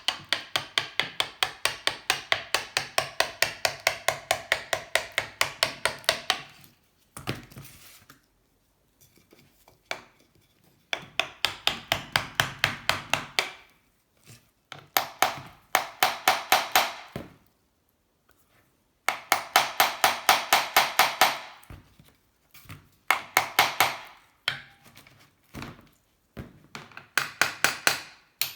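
Wooden wedges being tapped with a hammer between the aluminium engine case halves of a Honda C70 to split them apart. The taps come quick and evenly, about four or five a second, in runs of a few seconds with short pauses between.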